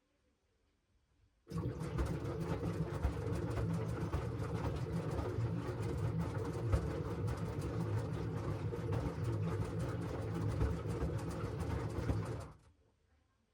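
LG washing machine drum turning through the wash: a steady motor hum with the clatter and swish of laundry in the drum, starting about a second and a half in and dying away near the end. Before and after the turn the drum rests in silence.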